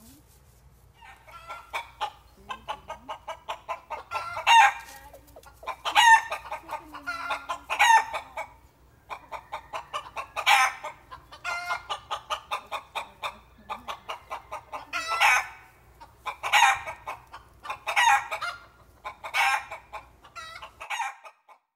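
Chickens clucking in quick runs of short notes, with several louder calls standing out over the clucking.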